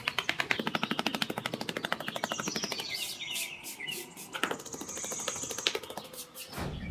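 Rapid, even clicking, about a dozen clicks a second, thinning out after about three seconds, with birds chirping over it; music comes in near the end.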